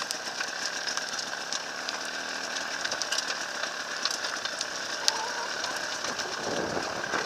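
Enduro motorcycle engine running steadily, with scattered sharp clicks and knocks over it.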